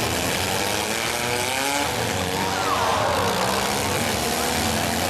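Engines of several compact demolition derby cars running and revving at once, their pitch rising and falling over a steady din.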